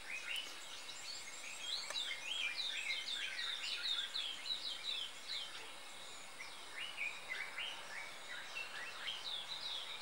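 Birds chirping in a busy run of many short, high notes, with a brief lull about halfway through before the chirping resumes.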